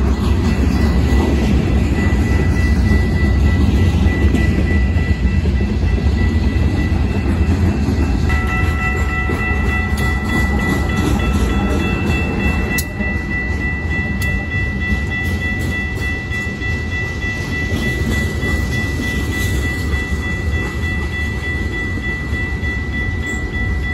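Freight train rolling past close by: a steady heavy rumble of wheels on rail with clickety-clack from the passing cars. A Union Pacific GE AC44 diesel locomotive, running as a mid-train helper, goes by about halfway through. Steady high-pitched tones sound over the rumble, growing louder from about eight seconds in.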